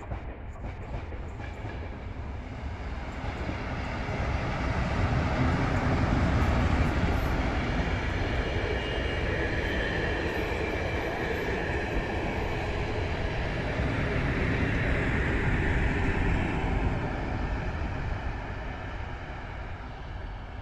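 An Intercity passenger train hauled by an electric locomotive runs past on the rails, its wheels and coaches rumbling. The sound swells a few seconds in, holds loud for most of the pass, then fades near the end as the train draws away.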